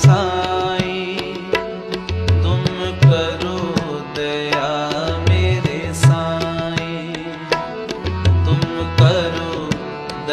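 Devotional Sikh shabad (Gurbani kirtan) playing as background music: a melodic line with tabla accompaniment and a deep drum stroke about every two seconds.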